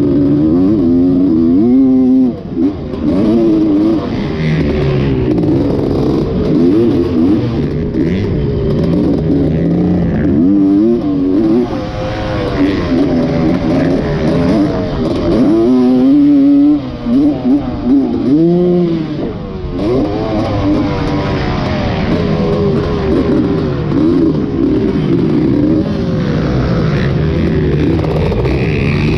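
Dirt bike engine being ridden hard, revving up and down: its pitch climbs and drops again and again as the throttle is opened and shut.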